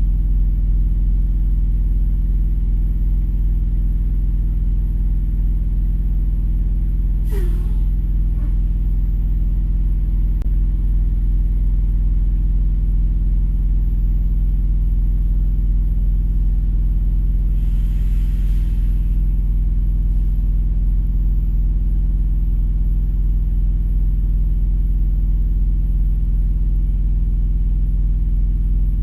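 A vehicle engine idling with a steady low rumble, heard from inside the cab. A short hiss comes about 18 seconds in.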